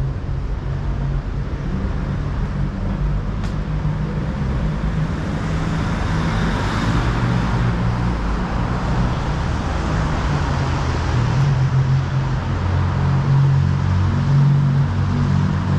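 City street traffic: a steady low engine rumble, with vehicles passing, louder around the middle and toward the end, and a single sharp click a few seconds in.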